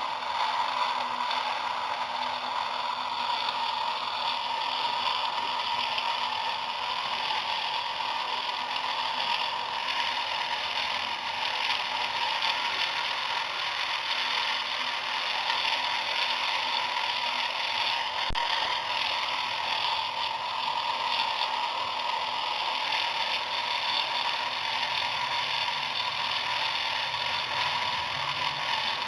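Small electric motor and gear train of a homemade miniature tractor-driven mill running steadily, a constant whirring with a single click about two-thirds of the way through.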